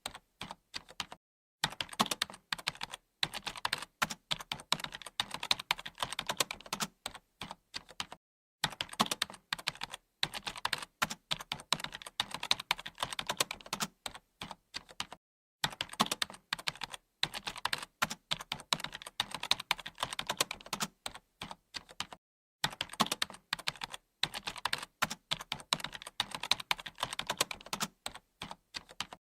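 Typing on a computer keyboard: a rapid, continuous stream of key clicks, broken by a brief silent gap about every seven seconds.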